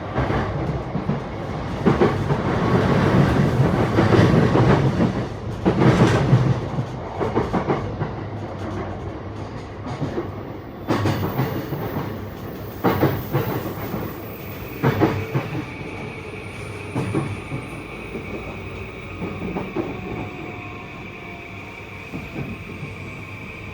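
E235-1000 series electric train heard from on board: wheels rumbling and clattering over rail joints, loud and dense at first. From about halfway it grows quieter, with a steady high whine and faint falling motor tones as the train slows.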